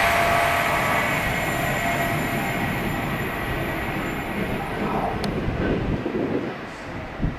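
A train running past on the line, its rumble and a high ringing tone from the wheels or motors fading away as it recedes. A sharp click about five seconds in and a short thump near the end.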